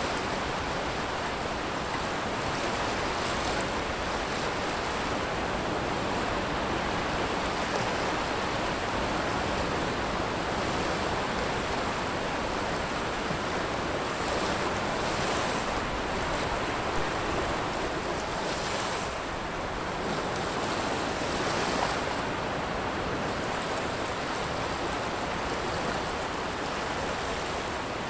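Sea surf washing over a pebble beach: a steady, unbroken rushing wash of water and stones, with no single big crash standing out.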